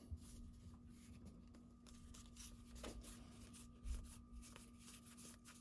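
Near silence with faint soft rustles and clicks of trading cards being handled and flipped, over a faint steady electrical hum.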